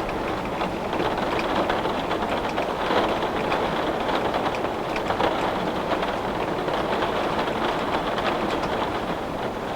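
Heavy rain pattering steadily on window glass, a dense even rush of drops with many small ticks.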